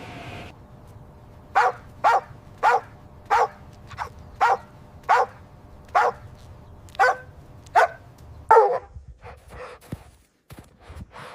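A dog barking in a steady series of about ten sharp barks, roughly one every half to three-quarters of a second, followed by a few quieter, shorter barks near the end.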